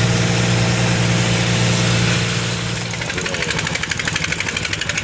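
A fishing boat's engine running steadily at a low pitch. About three seconds in, the sound changes to a fast, even chugging.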